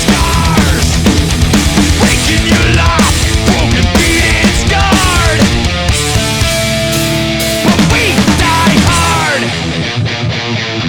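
Loud heavy rock music: electric guitar playing sliding, bending notes over drums. A single note is held for about a second and a half around six seconds in, while the bass drops away.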